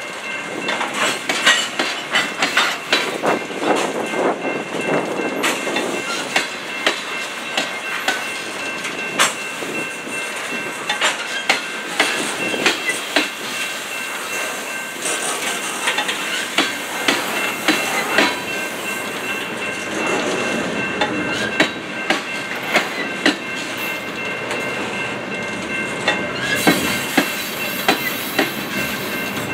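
Freight cars rolling past, their wheels clicking and clacking irregularly over a noisy rail joint at the crossing, over a steady rolling rumble. A faint steady high ringing tone runs underneath.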